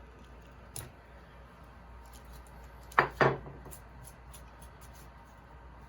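Two sharp taps of a hammer on a wood-carving chisel, about a quarter second apart, some three seconds in, with a lighter tick earlier and faint clicks of the blade in the wood.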